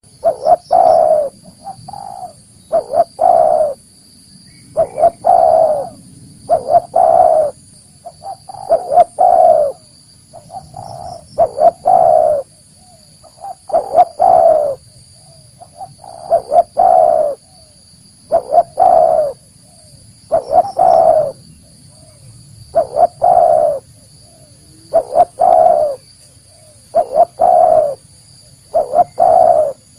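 Spotted dove cooing: a phrase of a few short notes ending in a longer, louder coo, repeated about every two seconds.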